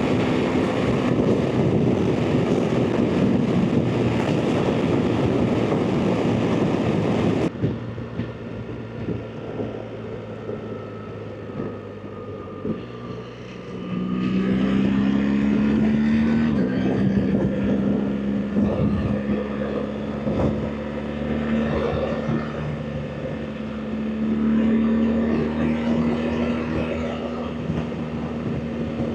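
BMW R 1300 GS Adventure's boxer-twin engine heard from the rider's position. Heavy wind rush over a steady engine note at motorway speed gives way, after a sudden cut, to a quieter ride where the engine revs rise, drop at a gear change and then hold steady.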